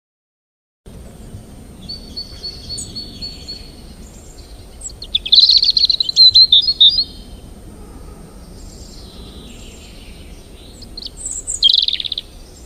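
Birds chirping and calling over a low steady background noise, loudest in a cluster of rapid chirps about five seconds in and again with a falling call near the end.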